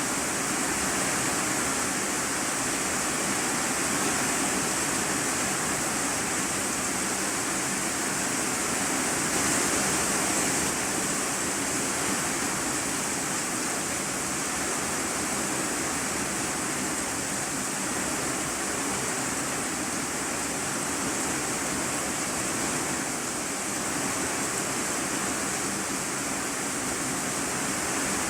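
Heavy rain drumming on an iron-sheet roof, heard from the room beneath as a steady, dense hiss with a slight swell about ten seconds in.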